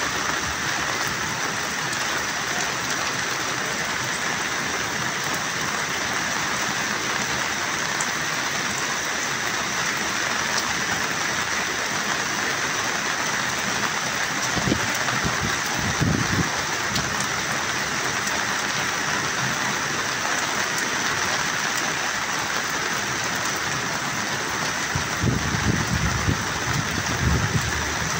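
Heavy rain falling in a steady hiss, with brief low rumbles about halfway through and again near the end.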